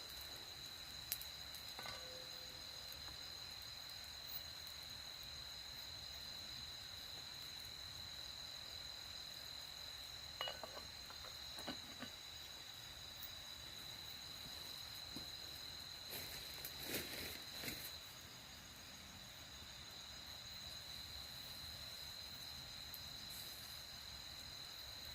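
Night insects, like crickets, keeping up a steady high-pitched trill, with a few soft clicks and knocks scattered through it and a short cluster of them a little past the middle.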